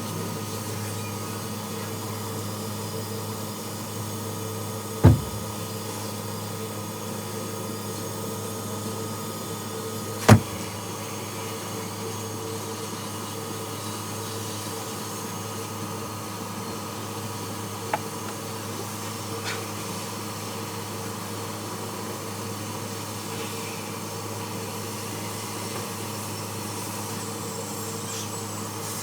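A steady machine hum runs throughout, broken by two loud knocks about five and ten seconds in and a faint click later.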